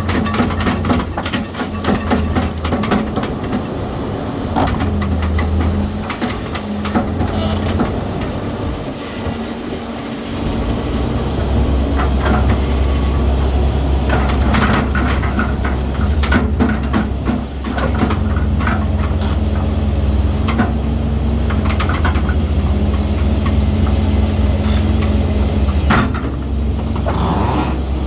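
Caterpillar 320C excavator's diesel engine running steadily, its low note dropping away briefly about nine seconds in and then coming back stronger. Scattered metallic clanks and knocks sound over it.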